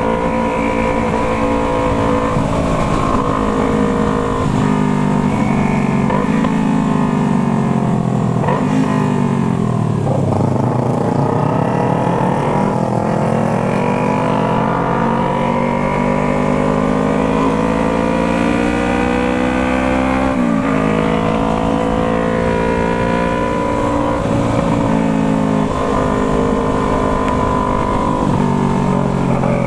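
Yamaha MT-03's parallel-twin engine through a Jeskap aftermarket exhaust while riding. The engine note falls away to a low point about ten seconds in, climbs back up, and jumps sharply in revs about twenty seconds in.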